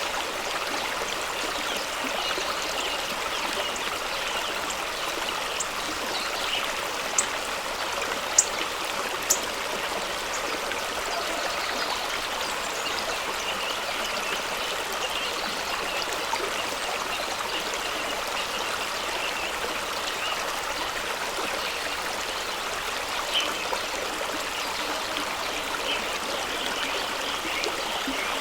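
Fast-running stream rushing steadily over rocks, a continuous even splashing of water, with a few brief sharp clicks about seven to nine seconds in.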